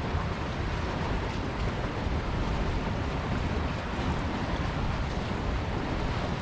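Strong wind buffeting the microphone over the wash of choppy water, a steady low noise with no pauses.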